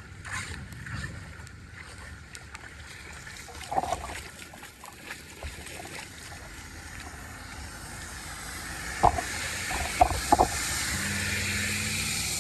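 Water rushing and splashing, growing louder in the second half, with a few sharp knocks, and a low steady hum that starts near the end.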